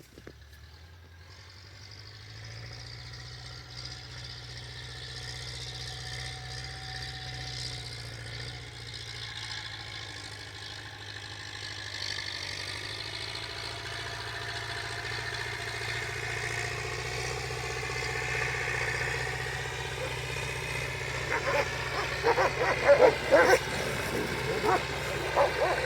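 A motor vehicle's engine running steadily and growing louder as it draws closer, with dogs barking near the end.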